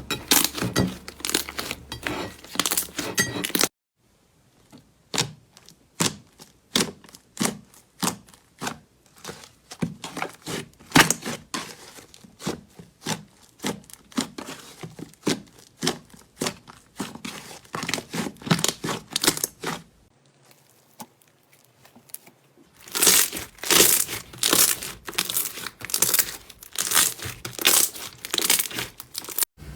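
Slime being squeezed and worked, giving rapid sticky clicks, pops and crackles. The sound breaks off abruptly a few seconds in and goes quieter for a couple of seconds about two-thirds of the way through, then comes back denser and louder near the end.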